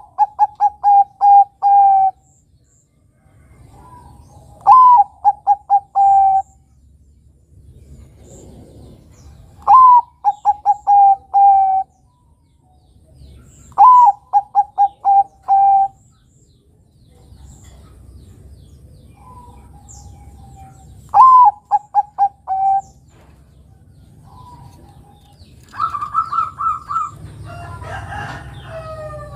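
Perkutut bangkok (zebra dove) cooing its song: phrases of a rising opening note followed by a quick run of about five short, evenly spaced coos, repeated every four to five seconds. A faint chirping of other small birds sits behind it, and a higher, busier stretch of calling comes near the end.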